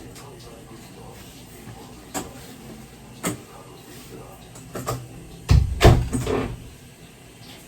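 A few separate sharp knocks, then a louder cluster of thumps and clatter about five and a half seconds in.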